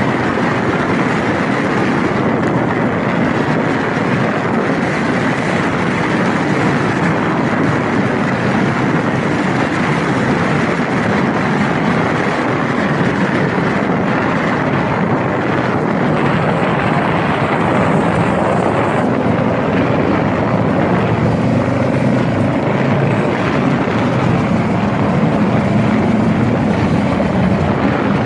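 Honda Rebel motorcycle under way, its engine running steadily under a constant rush of wind and road noise.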